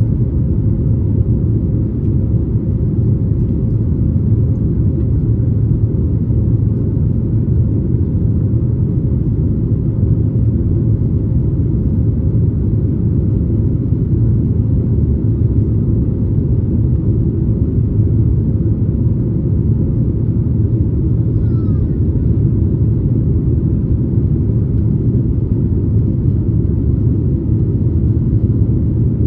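Steady cabin noise inside a Boeing 737 MAX 8 in flight, heard from a window seat just behind the wing: a deep, even rumble of the CFM LEAP-1B engines and air rushing past the fuselage, with a faint steady hum.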